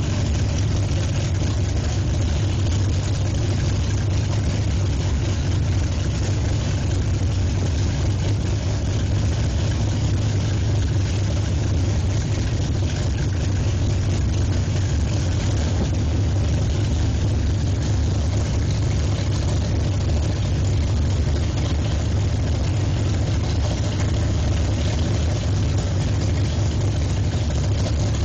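1956 Chevrolet drag car's engine idling steadily and loudly, with a deep, even beat.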